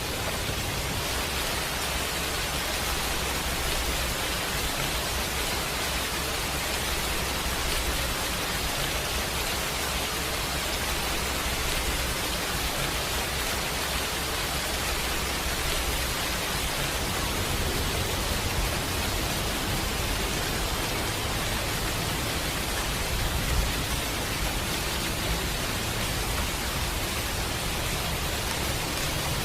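Steady rain noise, an even hiss with no letting up, with one brief low thump about three-quarters of the way through.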